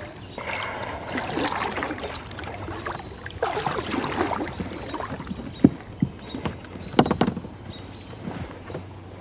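Water splashing and sloshing around a kayak, with irregular knocks against the hull; two sharp knocks stand out, about five and a half and seven seconds in.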